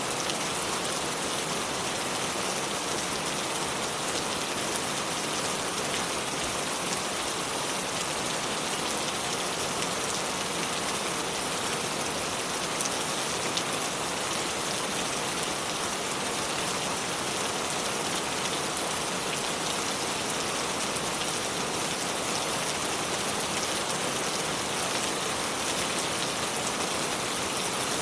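River water flowing over stones: a steady, even rush of water with faint small splashes.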